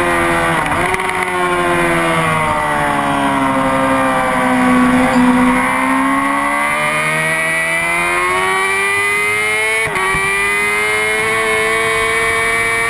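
Honda CBR600RR sport bike's inline-four engine at speed on a race track. The revs fall as the bike slows for a corner, bottom out about five seconds in, then climb as it drives out. A quick upshift about ten seconds in breaks the climb, then the engine pulls hard again.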